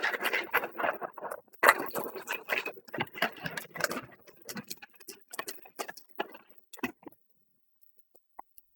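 Ice cubes rattling inside a shaker bottle of drink mix being shaken hard; the rattling thins out and stops about seven seconds in.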